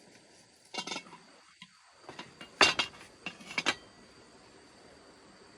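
A few sharp clinks and knocks of utensils against pots and dishes, the loudest about two and a half seconds in, over a faint steady high tone.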